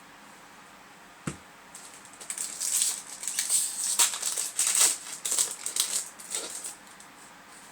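Foil wrapper of a Yu-Gi-Oh! booster pack crinkling and crackling as it is ripped open, a run of irregular crackles from about two seconds in until near the end, after a single tap about a second in.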